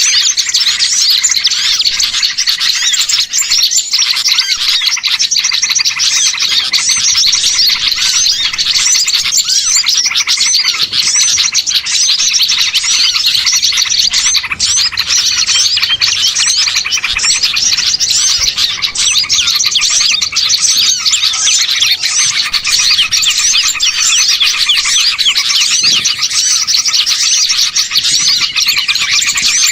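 Dense chorus of many small songbirds chirping, twittering and trilling over one another without a break: a bird-lure recording of agitated small-bird calls, made to draw wild small birds in.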